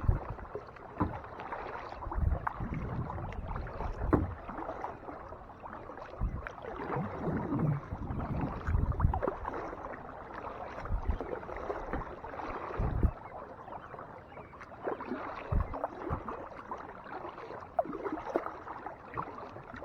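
Kayak paddling on a lake: paddle blades dipping and splashing through the water, with water sloshing along the hull and irregular low thumps every second or two.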